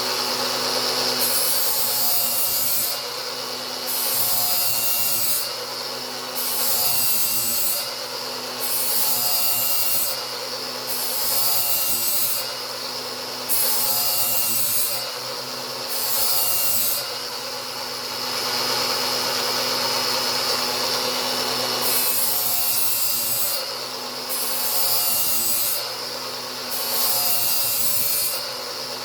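Angle grinder running steadily as its disc grinds a new edge on a mower blade, the rasping grind swelling and easing in passes about every one and a half to two seconds as the disc is worked along the edge.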